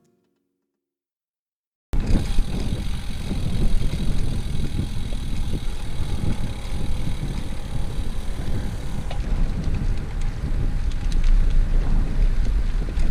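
Silence for about two seconds, then wind buffeting the microphone on a fast road-bike ride, a steady low rumble that starts abruptly.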